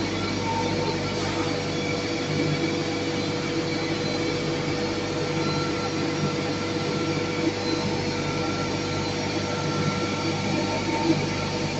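Animal feed hammer mill running steadily: a continuous mechanical din with a constant whine held at one pitch.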